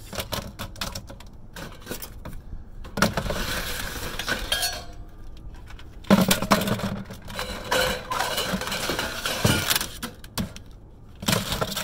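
Pieces of scrap metal ceiling material clattering and clinking as they are dropped into a container, in irregular bursts of knocks.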